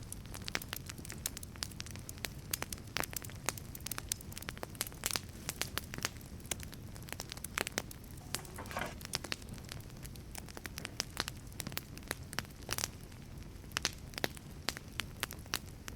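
Wood fire burning in a wood-fired pizza oven: many sharp, irregular pops and crackles over a steady low rumble of the flames, with a brief faint hiss a little past halfway.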